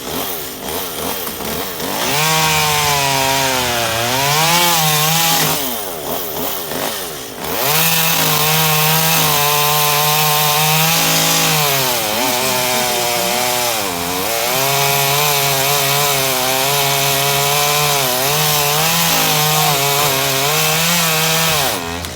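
Chainsaw cutting through a tree trunk: the engine runs at high revs, its pitch sagging and recovering several times as it bogs under load in the cut, with a couple of short easings off. It stops right at the end.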